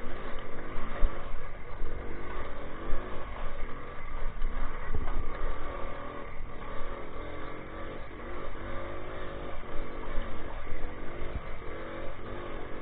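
Minsk 125 motorcycle's two-stroke single-cylinder engine running while being ridden, its revs rising and falling unevenly, with a rough low rumble and a few knocks underneath.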